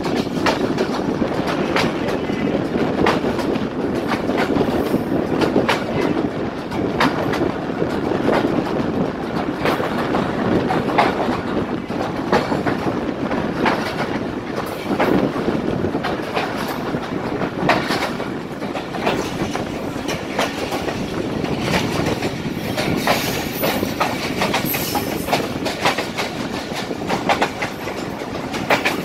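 Allama Iqbal Express passenger train running steadily over the track: a continuous rumble of the coaches, with the clickety-clack of wheels striking rail joints at irregular intervals.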